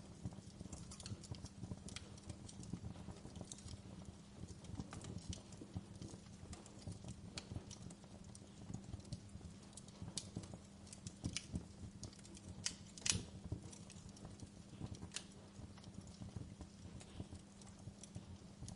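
Wood fire crackling: irregular sharp pops and snaps over a low steady hum, with the loudest pop about two-thirds of the way through.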